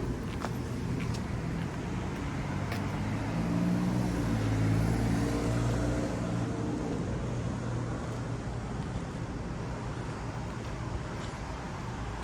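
A motor vehicle passing close by, its engine hum swelling and fading over a few seconds, over steady traffic noise.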